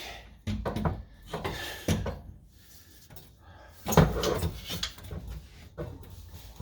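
A series of separate metallic clunks and scrapes as a stuck exhaust pipe section is wrestled and worked loose under the car. The loudest clunk comes about four seconds in.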